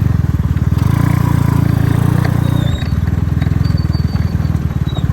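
Honda Cub single-cylinder motorcycle engine running under way, its exhaust pulsing evenly and swelling louder for a second or two as it pulls harder.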